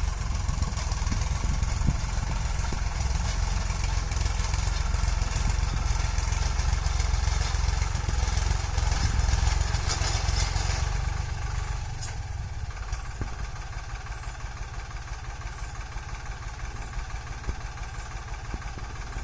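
Tractor engine running steadily, then dropping to a quieter, evenly pulsing run about twelve seconds in.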